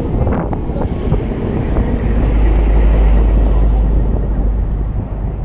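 Strong wind buffeting the microphone, a deep rumbling noise that swells about two seconds in and eases off toward the end.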